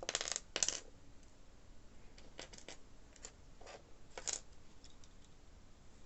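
Small hard objects being handled: two short rattling bursts at the start, then a scatter of light clicks and taps, as of a die-cast model car and its loose pieces being picked up and set down.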